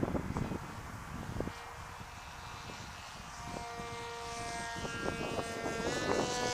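Electric motor of a large radio-controlled foam F-22 model plane whining steadily in flight, its pitch rising near the end. Wind buffets the microphone.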